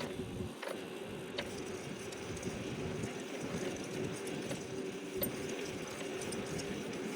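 Electric bicycle riding: steady rolling and wind noise with a constant hum underneath and a few light rattling ticks.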